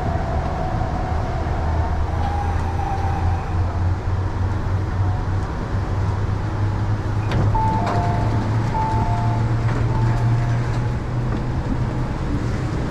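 MTR East Rail Line R-Train electric multiple unit running, heard from on board: a steady low rumble and hum from the wheels and traction equipment, with faint steady tones above it. About halfway through, short alternating two-note tones repeat for a few seconds.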